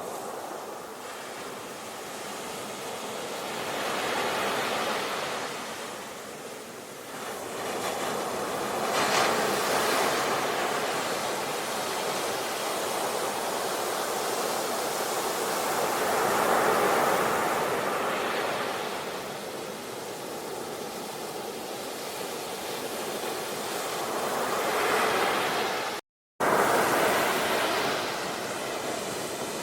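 Ocean waves washing ashore, the surf swelling and falling back every few seconds. Near the end the sound cuts out completely for a moment, then returns at full strength.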